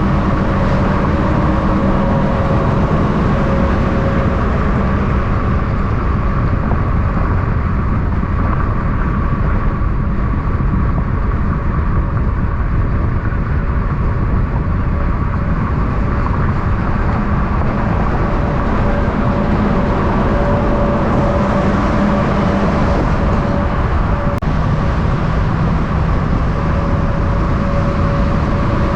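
Steady vehicle engine and road noise: a constant low rumble with a faint steady hum, holding level throughout with no passing vehicle rising and fading.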